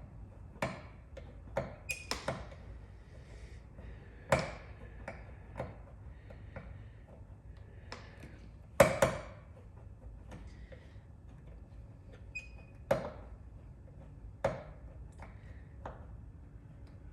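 Paintless dent repair hand work on a truck's metal bed rail: a dozen or so sharp clicks and metallic taps at uneven intervals, a few with a brief ring, the loudest about nine seconds in.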